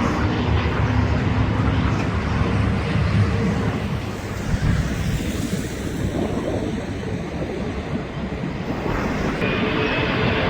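Airbus A320 jet engines at takeoff power: a loud, steady rumble with no breaks.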